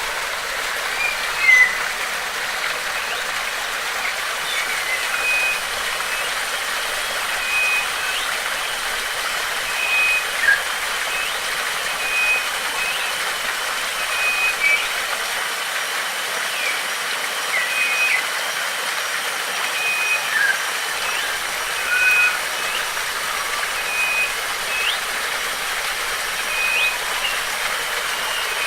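Steady rush of running water, with birds chirping now and then and a short, even, high note repeating every one to two seconds.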